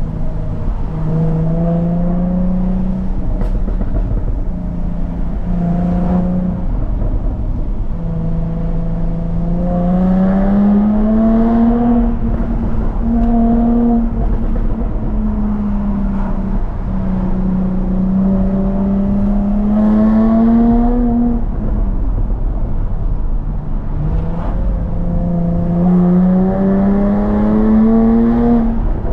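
Jaguar F-Type S's 3.0-litre supercharged V6 running while driven, its note climbing in pitch under throttle three times and settling back lower in between.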